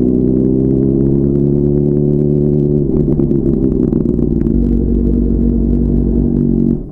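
Sport motorcycle engine running at steady high revs at freeway speed. The note changes briefly about three seconds in, then drops off suddenly near the end.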